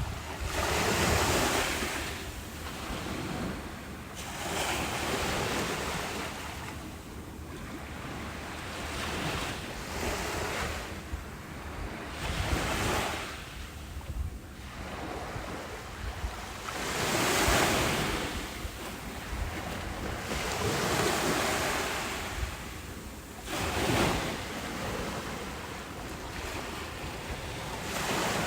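Ocean waves breaking on a beach, a rush of surf that swells and ebbs every few seconds, with wind rumbling on the microphone.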